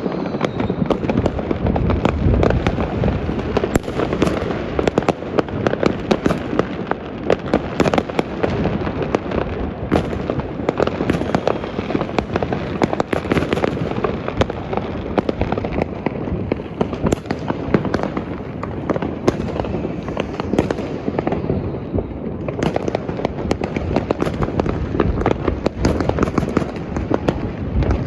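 Fireworks and firecrackers going off all over a city at once: a dense, unbroken crackle of many overlapping bangs and pops, thinning slightly for a few seconds past the middle before picking up again.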